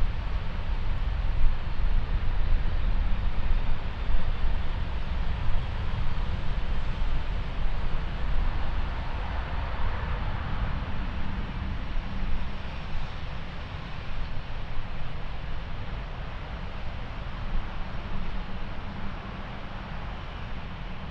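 Jet airliner engine noise, swelling about halfway through and then slowly fading, with wind rumbling on the microphone.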